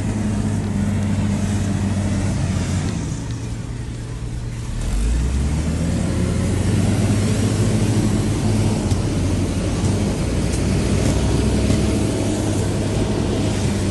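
Diesel engine of a heavy earthmoving machine working steadily. It eases off a little about three to four seconds in, then comes back pulling harder with a deeper note from about five seconds in.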